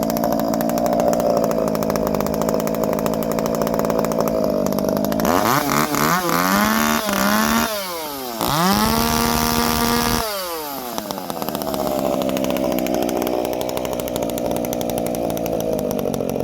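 Two-stroke chainsaw running steadily. About five seconds in it is blipped up and down several times, then held at high revs for a couple of seconds, before dropping back to a steady run. The sound cuts off abruptly at the very end.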